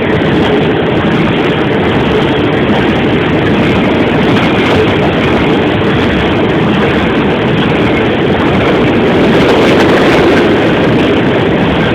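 Loaded coal train rolling past, making a loud, steady noise with no breaks.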